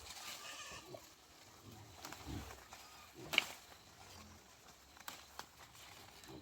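Farm animals calling: scattered short low calls, with one sharp high cry about three seconds in and a few faint knocks.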